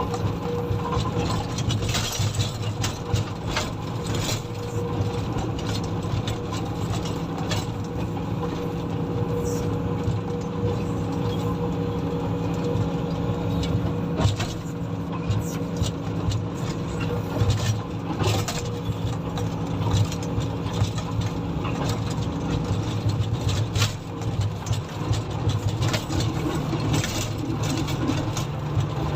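Komatsu motor grader's diesel engine running steadily while grading, a constant low drone with a steady tone above it, and frequent short clicks and rattles over it.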